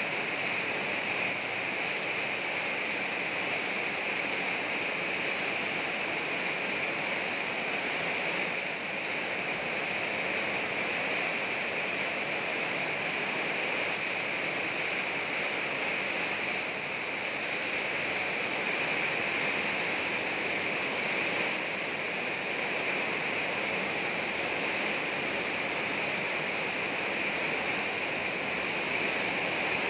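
Heavy rain falling steadily on a corrugated metal roof, an even, unbroken downpour noise.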